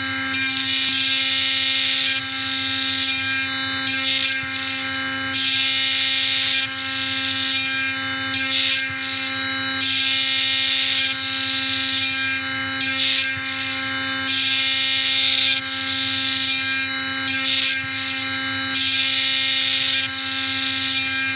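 Haas CNC mill cutting brass: a steady spindle whine under a cutting hiss that rises and falls irregularly as the tool moves through the work.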